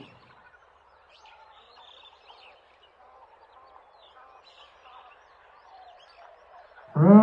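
Faint outdoor ambience with scattered small bird chirps. Near the end a loud, low, drawn-out animal call begins.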